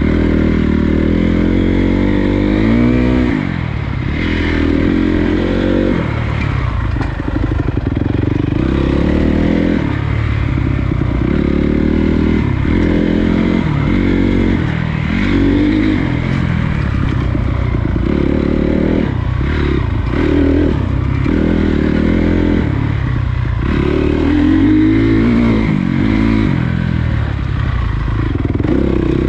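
Honda CRF250 dirt bike's single-cylinder four-stroke engine revving up and dropping back over and over as the throttle is opened and closed on the trail. There is some clatter from the bike over rough ground.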